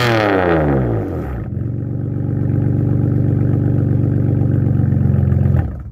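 BMW M4 F82's twin-turbo straight-six heard through its exhaust, its revs falling fast after a blip, then settling into a steady idle that cuts off abruptly near the end.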